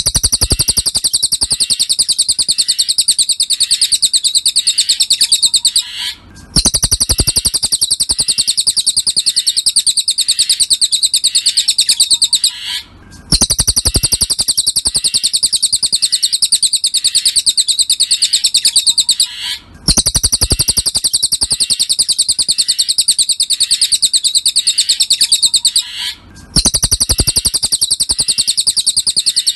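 Cililin (pygmy tit) song played as a bird-training recording: a fast, high chattering trill of rapid notes. It comes in phrases about six seconds long, each broken by a brief pause, and the same phrase repeats four times.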